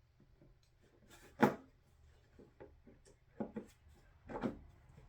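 Parts of a diesel heater being handled and set down: a few short knocks and clunks, the loudest about one and a half seconds in, with smaller clicks and two more knocks near the end.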